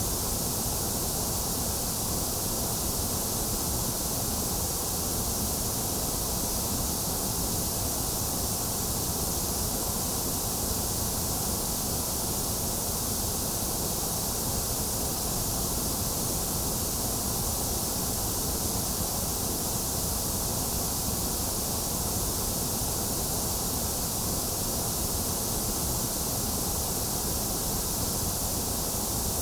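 Steady white noise for infant sleep: an even, unchanging hiss with no breaks or changes in level.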